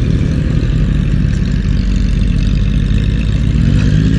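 Motorcycle engine running steadily, its exhaust loud, with a dense low rumble.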